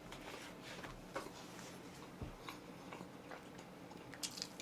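Faint chewing of oven-baked chicken, with a few soft mouth clicks.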